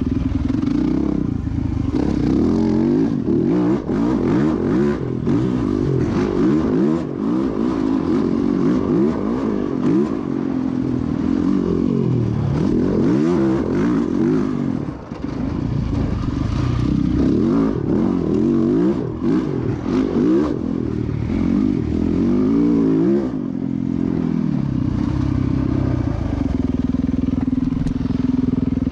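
Motocross dirt bike engine revving hard, its pitch climbing and dropping again and again as the rider works the throttle and gears. About two thirds of the way through it settles into a steadier, even note.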